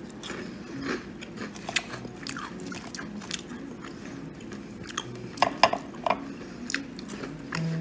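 Close-up chewing of a bite of deep-fried, crumb-coated carp roe, with short crunches of the fried coating scattered throughout, a few louder ones a little after the middle.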